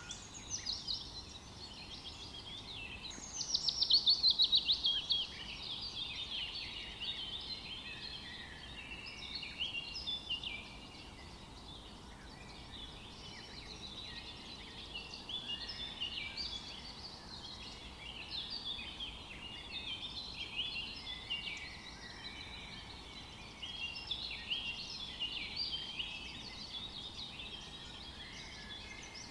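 Several songbirds singing in woodland: overlapping chirps and short trills throughout, with one loud, fast trill that falls in pitch about three seconds in.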